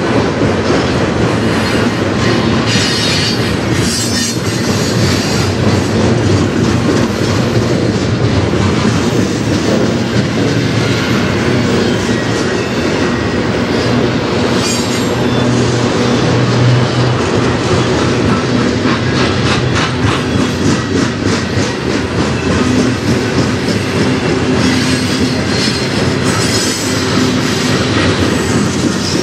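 Freight cars of a mixed manifest train rolling past close by: a steady rumble of steel wheels on rail with clickety-clack over the rail joints, and now and then a brief high wheel squeal.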